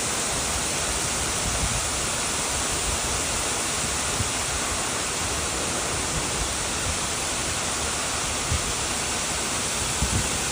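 Floodwater rushing steadily, a dense, even noise of fast-flowing water.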